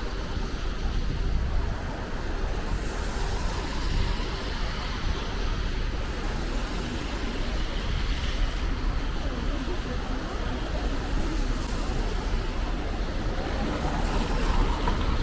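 Steady city road traffic noise: an even rush of passing cars.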